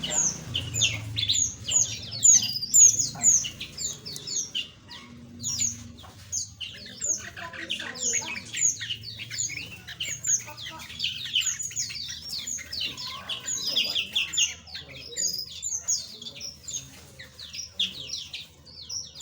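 A flock of small aviary birds chirping constantly, many short high chirps overlapping with one another.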